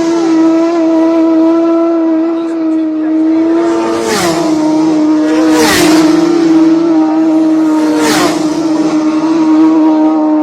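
Cars passing by at speed, three in quick succession about four, six and eight seconds in, each a brief rush with its engine note dropping in pitch as it goes past. A steady engine drone runs underneath.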